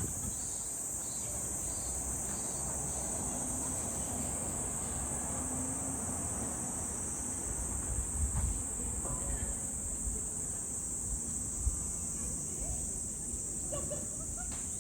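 A steady, high-pitched drone from a chorus of summer insects, unbroken throughout, over irregular low thuds from footsteps and handling.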